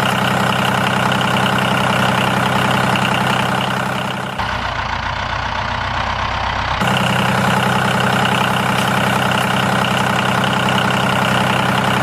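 Small engine of a homemade mini tractor running steadily at idle, with a brief abrupt change in tone near the middle.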